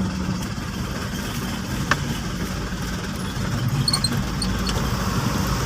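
Truck engine running steadily, a continuous low rumble, with a single short click about two seconds in.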